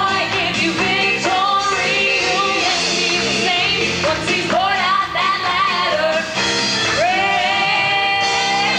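Women's vocal quartet singing a gospel-style song in close harmony; near the end the voices hold one long chord with vibrato.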